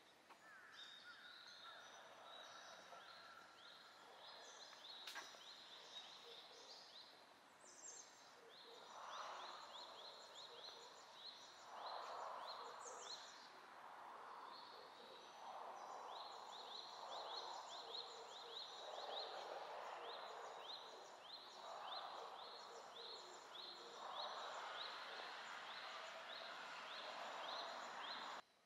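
Songbirds chirping in quick runs of short, downward-sliding notes. A soft rushing noise swells and fades every couple of seconds beneath them.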